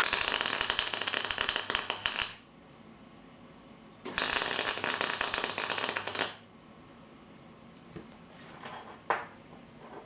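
Electric arc welding on steel box section: two runs of about two seconds each, crackling steadily, as small steel pieces are welded together into a spacer. A few faint metal clinks follow.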